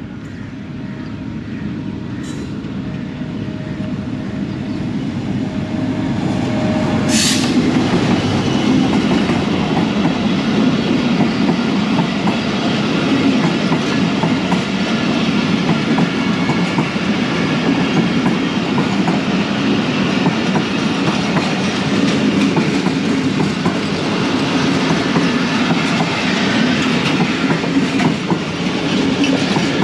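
Passenger train passing at slow speed, about 50 km/h, with its coach wheels clattering over the rail joints. It grows louder over the first several seconds as the train draws level, then holds steady.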